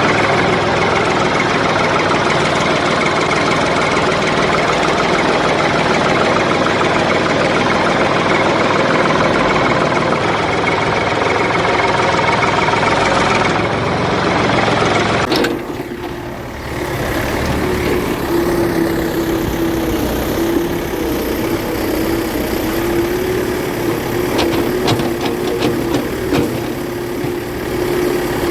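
Remote-control toy construction vehicles running with a steady engine-like drone. About halfway through the sound changes abruptly to a steady pitched hum, with a few clicks near the end.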